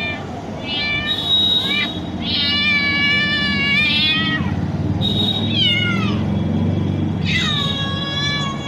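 A domestic cat meowing four times. The second meow is long and drawn out, about two seconds.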